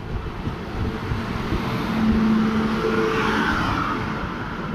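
Running noise of a moving train, a rumble and clatter of wheels on rail with rushing air, as a parallel train's electric locomotive passes close alongside. A steady hum joins about two seconds in and fades near the end.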